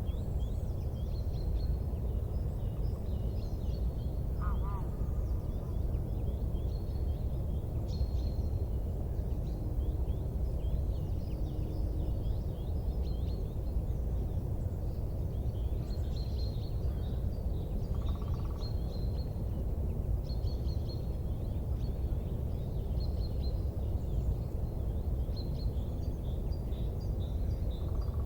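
Small birds chirping and twittering in many short, falling calls over a steady low rumble.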